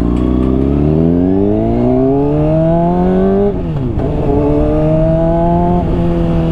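Honda CBR600RR inline-four with a slip-on exhaust accelerating: the engine note rises steadily, drops sharply at an upshift about three and a half seconds in, climbs again, then falls at a second upshift near the end and settles to a steady note.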